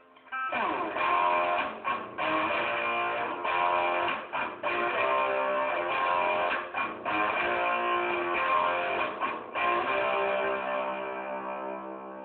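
Guitar improvisation: chords strummed in phrases, starting about half a second in, with several brief breaks between them.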